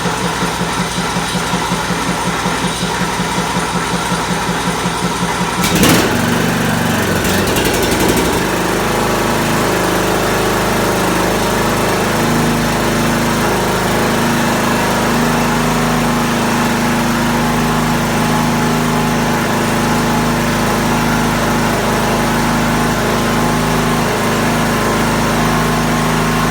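John Deere lawn tractor's small gasoline engine running just after a start on choke. It runs with a regular pulsing for about six seconds, changes briefly, then settles into a steady, even run.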